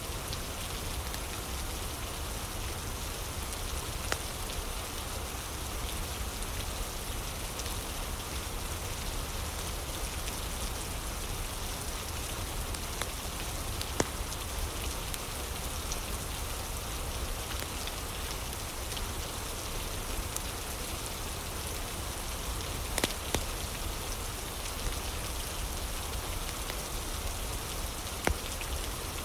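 Steady rain falling, with a few sharp pops from a crackling fire scattered through it.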